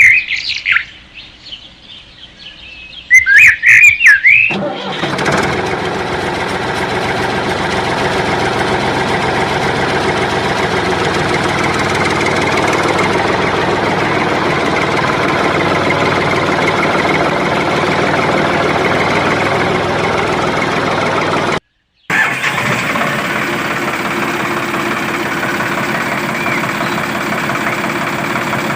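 Loud high whistling chirps, then a tractor engine starts running steadily about four and a half seconds in. The engine cuts out abruptly for a split second near the end and then carries on a little quieter.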